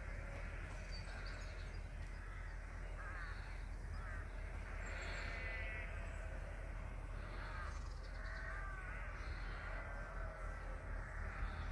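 Birds calling several times over a steady low rumble.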